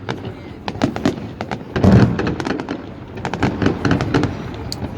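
Fireworks salute going off: a rapid run of sharp bangs and crackles, with a heavier boom about two seconds in.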